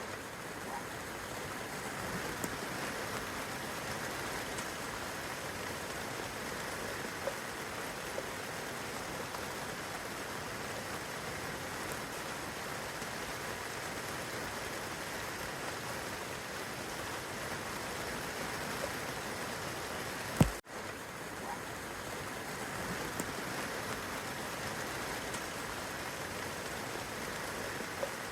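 Steady rain falling on the leaves of a young fruit tree and on the grass below: an even hiss with now and then a single drop ticking. One sharp click about twenty seconds in, with a moment's drop in the rain sound.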